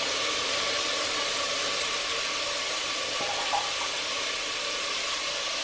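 Chopped vegetables frying in hot oil in a pressure cooker: a steady sizzling hiss.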